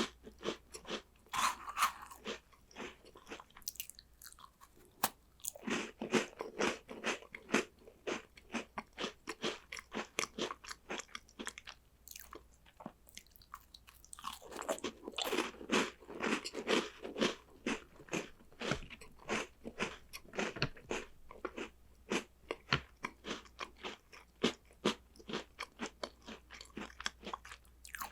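Close-miked crunching and chewing of crunchy chocolate snacks, a dense run of crisp crunches coming in bouts, thickest about five seconds in and again from about fourteen seconds.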